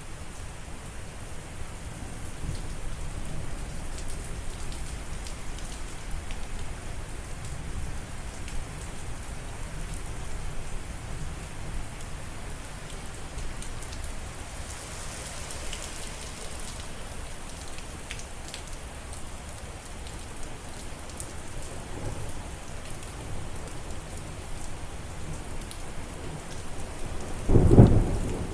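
Steady rain falling, an even hiss, with a loud low clap of thunder near the end.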